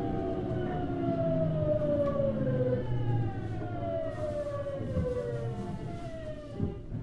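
Hitachi GTO-VVVF inverter and traction motors of a Tokyu Series 9000 electric train whining in several parallel tones that fall steadily in pitch as the train slows, over the rumble of the wheels on the rails. A couple of small knocks come near the end.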